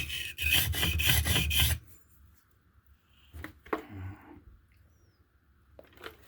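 A steel blade scraping rapidly back and forth across a limestone sharpening stone, about five rasping strokes a second, stopping about two seconds in. A few faint knocks follow.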